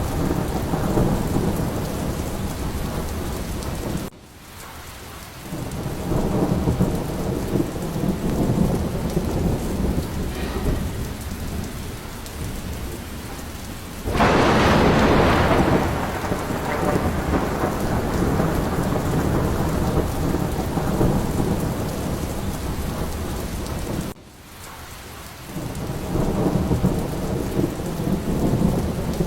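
Steady rain with a continuous low rumble of thunder. A loud, sharp thunderclap breaks about halfway through and is the loudest moment. Twice, about 4 and 24 seconds in, the sound drops away suddenly and then builds back.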